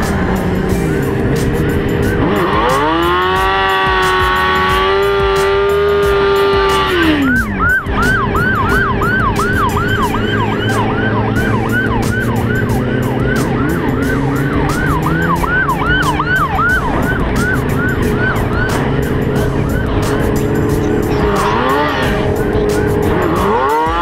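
Police siren sounding over running vehicle noise: a long rising, held tone that drops away about seven seconds in, then a fast yelp cycling about three times a second for roughly twelve seconds, and the rising tone again near the end.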